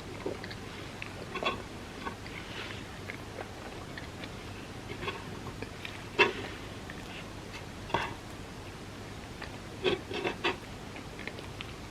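Close-miked eating sounds of soft crepe cake: a few short, moist clicks and smacks, scattered and then bunched together near the end, over a steady low hiss.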